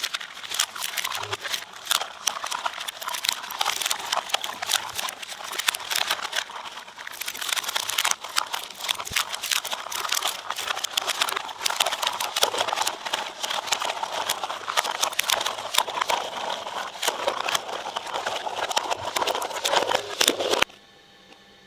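Material being chewed up in a shredder: a dense, crackling run of sharp crunches and snaps that cuts off suddenly near the end.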